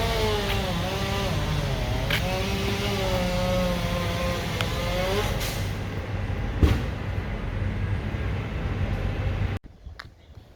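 Motor vehicle engine running, a low rumble with a wavering whine that bends up and down for the first five seconds or so. Near the end the sound cuts off abruptly to a much quieter background.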